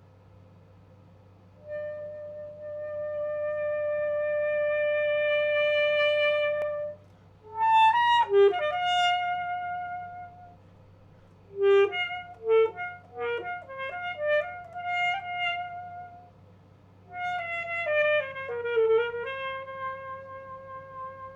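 Solo alto saxophone playing a slow passage. One long held note swells in loudness, then quick ornamented runs with pitch bends lead between sustained notes, ending on a lower held note. A faint steady hum runs underneath.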